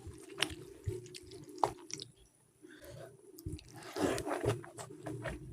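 A person chewing food close to the microphone, with wet mouth clicks and smacks, easing off for a moment about two seconds in and picking up again near the end.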